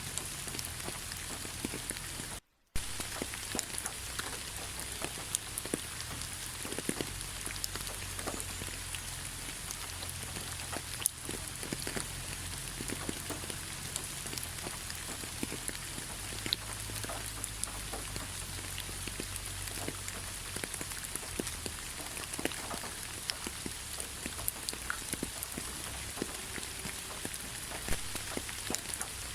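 Steady rain falling in a forest, with many individual drops striking close by over the steady hiss. The sound cuts out for a split second about two and a half seconds in, and one sharper drop hit stands out about eleven seconds in.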